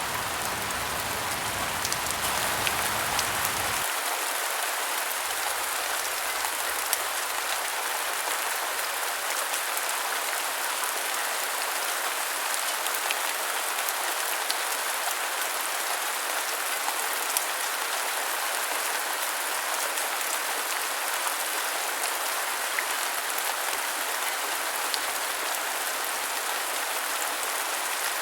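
Steady rain falling on a surface, a dense even hiss with scattered sharp drop ticks. A low rumble underneath cuts off abruptly about four seconds in.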